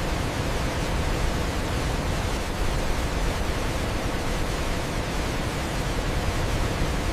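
Waterfall: a steady, unbroken rush of falling water, strongest in the low rumble.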